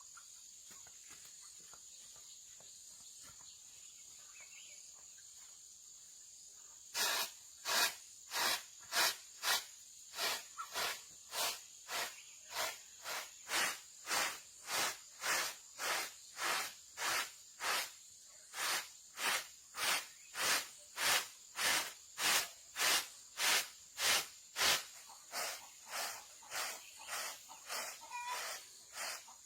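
A steady high insect buzz throughout. From about seven seconds in, a rhythmic rasping scrape repeats about twice a second, a stroke-by-stroke sound of hand work.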